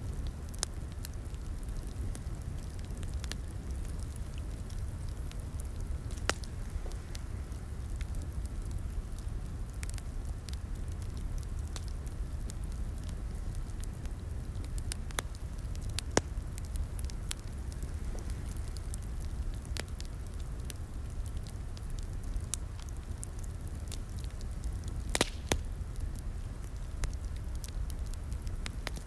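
Wood fire crackling in a fireplace: a steady low rumble of flames with irregular sharp pops and snaps, a few louder pops near the end.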